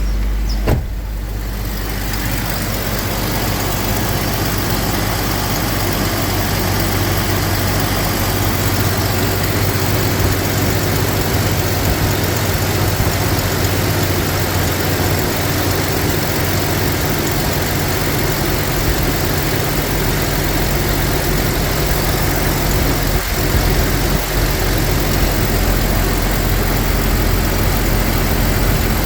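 1998 Jeep Cherokee XJ engine idling steadily just after a cold start, with a single sharp click about a second in.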